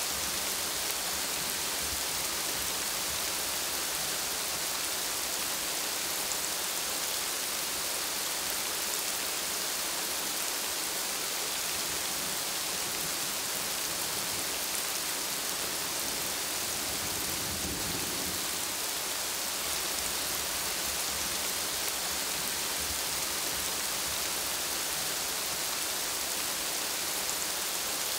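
Steady rain falling on broad plant leaves, a dense, even hiss with no break.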